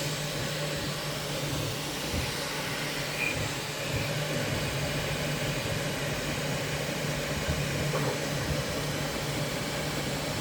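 Bambu Lab 3D printer running with a steady low hum and whirring noise, a strange noise its owner cannot explain after only 300 hours of printing.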